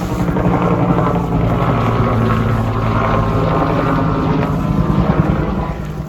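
Helicopter flying low overhead, the rotor chop and engine loud and steady, then falling away near the end.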